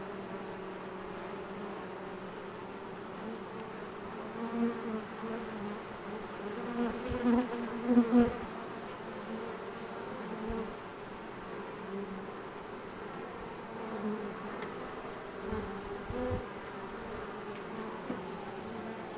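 A swarm of honey bees buzzing as it settles into a hive box: a steady hum whose wing roar has died down, with louder swells that bend in pitch as single bees pass close, the loudest about eight seconds in.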